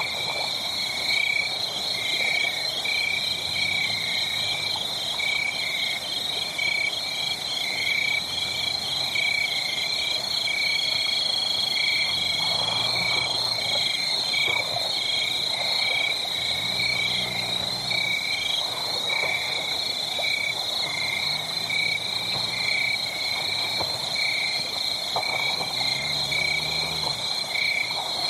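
Steady chorus of rapid, high-pitched pulsed chirping calls in two pitch bands, repeating evenly throughout.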